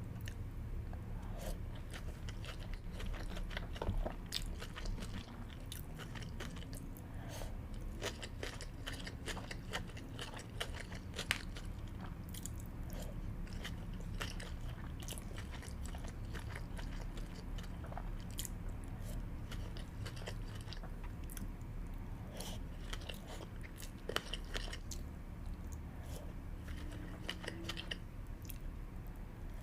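Close-miked chewing of sushi, with many small mouth and food clicks scattered throughout.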